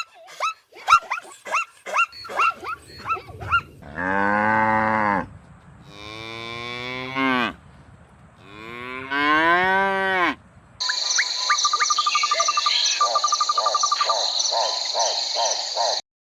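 A cow mooing three times, long drawn-out calls of about a second and a half each, the last one rising in pitch. Before them come a run of short, sharp, quickly repeated calls, and after them a steady high buzz with rapid chirps.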